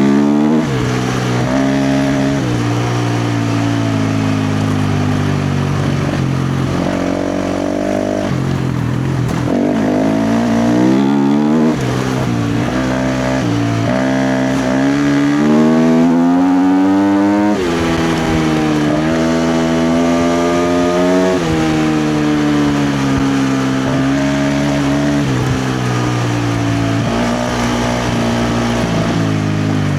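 KTM 350 XC-F's single-cylinder four-stroke engine under hard trail riding, the revs climbing and dropping again and again with the throttle. The longest climb comes just past the middle and cuts off sharply.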